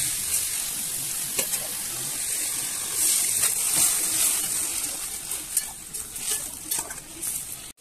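Mutton sizzling as it is browned (bhuna) in oil and spices in a metal kadhai, with a metal spatula scraping and knocking against the pan as it is stirred. The sizzle grows quieter in the second half.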